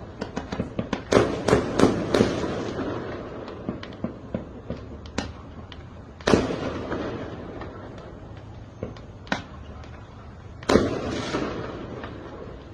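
Fireworks and firecrackers going off: a quick string of sharp bangs in the first couple of seconds, then scattered pops and two louder single booms, about six and eleven seconds in, each echoing away.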